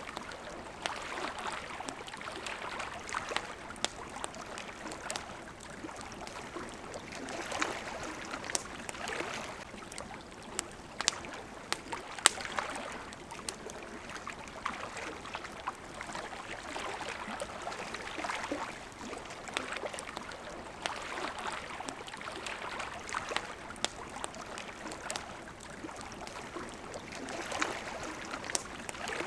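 Water lapping in soft swells every few seconds, overlaid with the sharp pops and crackles of a burning wood campfire; one louder pop comes about twelve seconds in.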